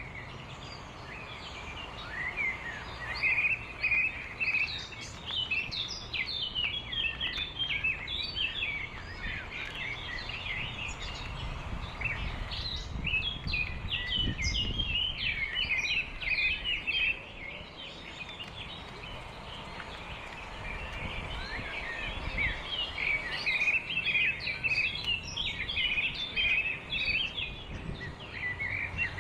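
A flock of small birds chirping together, a dense chatter of short, high chirps that thins out for a few seconds past the middle and then picks up again, over a steady low background rumble.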